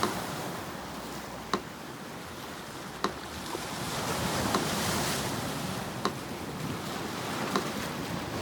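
Sea surf washing in and out, with a wave swelling to its loudest about halfway through, under a metronome ticking slowly and evenly, one tick about every second and a half.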